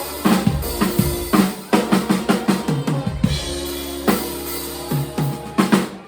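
Live rock band's drum kit playing a busy fill of snare and bass-drum hits over sustained low notes, with strikes coming several a second and bunching into quick runs.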